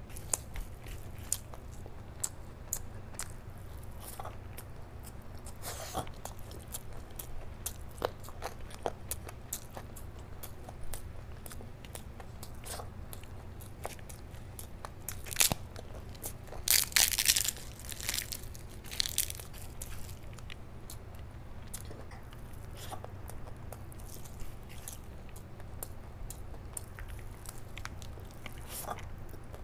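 Close-miked eating: wet chewing and mouth clicks of a mouthful of rice and curry eaten by hand, with a louder run of crunching in the middle.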